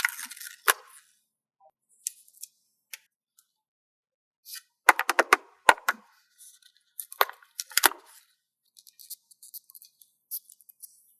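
Paper stickers being handled, peeled and pressed down: short crackling rustles and sharp taps in scattered clusters, with the busiest bursts about five and eight seconds in.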